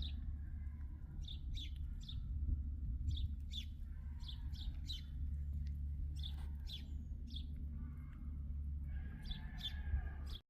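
Songbirds chirping in short, quick falling notes, several in a row, over a steady low rumble; all of it cuts off abruptly near the end.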